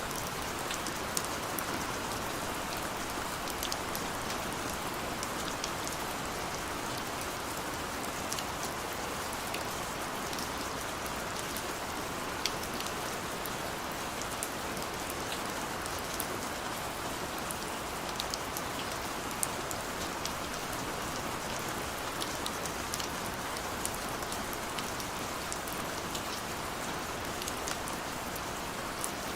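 Steady rain falling, with a constant hiss and scattered sharp drop ticks on a hard surface.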